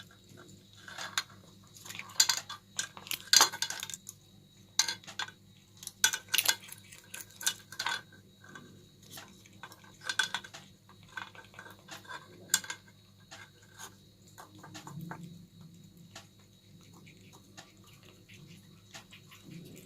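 A cat eating rice, with irregular clicking, smacking sounds of chewing and licking. The sounds are denser and louder in the first half and grow sparser and softer later.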